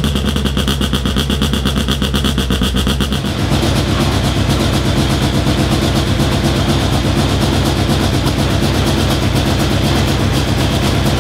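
Rally car engine running at a lumpy, pulsing idle; about three seconds in the engine speed steps up and holds steady at a higher pitch.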